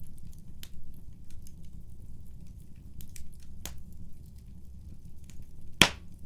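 Wood fire burning in a fireplace: a low steady rumble of flames with scattered small crackles, and one loud sharp pop near the end.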